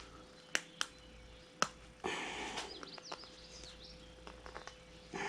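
Three sharp metallic clicks of small driveline parts being handled in the first two seconds, then a rustle of handling, over a faint steady hum.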